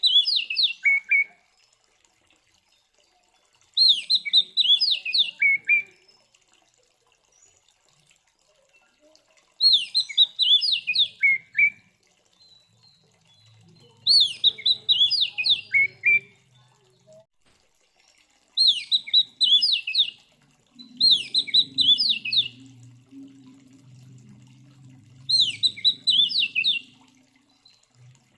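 Oriental magpie-robin (kacer) singing its challenging 'fighting' song. It repeats the same short phrase of quick whistled notes, each about two seconds long, every few seconds with short pauses in between.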